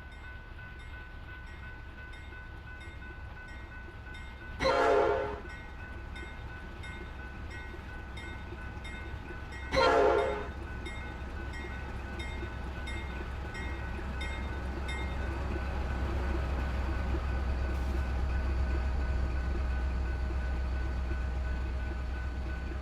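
Diesel locomotive horn sounding two short blasts about five seconds apart, over a faint steadily repeating bell. A low engine rumble then builds as the train approaches.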